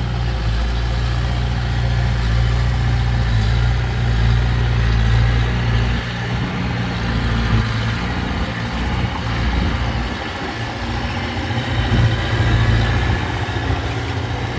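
Heavy diesel engine of earthmoving machinery running steadily. Its deep drone thins out about six seconds in and swells again near the end.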